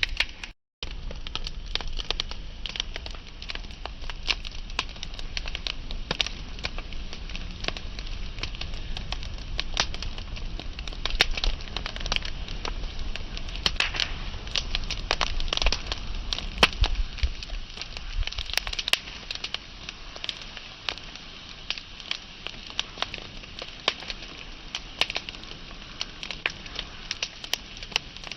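Wood fire burning, with constant sharp crackles and pops over a low rumble of the flames. The sound cuts out completely for a moment just after the start, and the low rumble eases in the last third.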